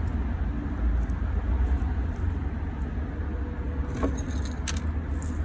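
Steady low background rumble, with a few light clicks about four seconds in from handling in a small succulent pot.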